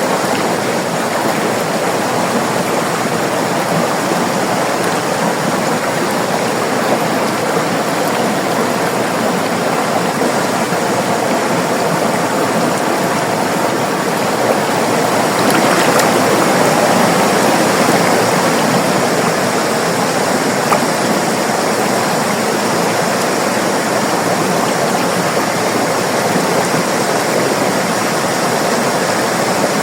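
River water flowing with a steady rushing sound, swelling slightly for a few seconds in the middle.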